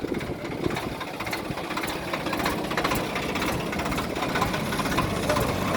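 Swaraj 855 tractor's diesel engine running with a fast, steady clatter.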